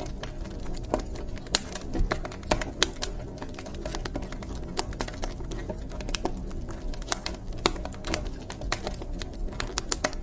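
Wood fire crackling in a fireplace: irregular sharp pops and snaps, several a second, over the steady low rumble and hiss of the flames.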